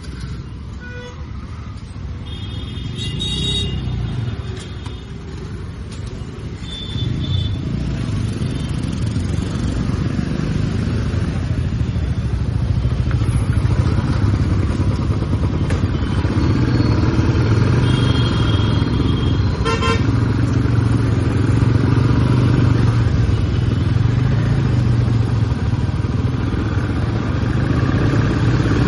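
Royal Enfield Classic 350's single-cylinder engine running under way, heard from the rider's seat; the engine grows louder about a quarter of the way in as the bike picks up speed and then holds steady. Vehicle horns sound briefly a few times.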